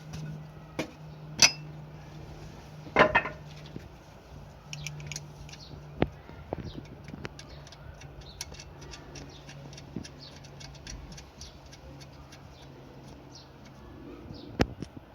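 Hand tools and metal fasteners clinking and clicking during motorcycle engine-mount work, a scatter of light ticks with a few sharper metallic knocks, over a low steady hum.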